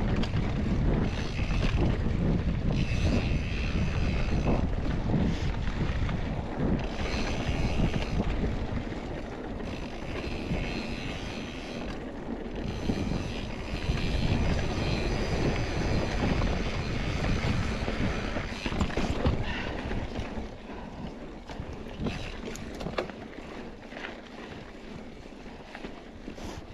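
Wind buffeting the microphone over the rumble and rattle of a mountain bike rolling fast over a dirt trail, easing off in the last several seconds.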